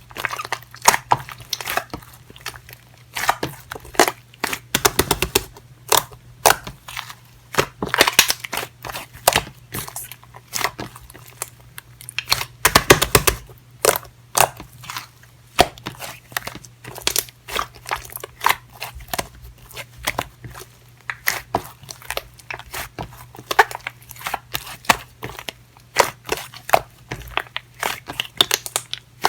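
Slime with clay mixed in, squished and folded by hand, giving rapid, irregular crackling pops and clicks.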